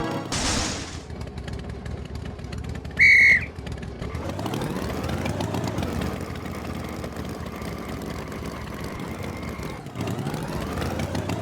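Engine running with a low rumble, its pitch sweeping up and down in crossing glides. A short, loud, high whistle-like toot sounds about three seconds in.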